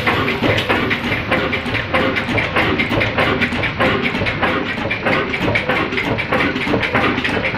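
Old black single-cylinder diesel engine running steadily under load, its exhaust beating in a fast, even rhythm as it drives a stone flour mill.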